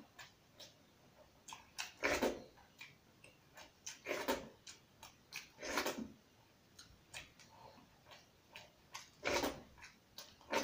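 Close-up mouth sounds of a man eating rice and chicken curry with his fingers: chewing and lip smacks, with a few louder smacks about two, four, six and nine seconds in and small clicks between.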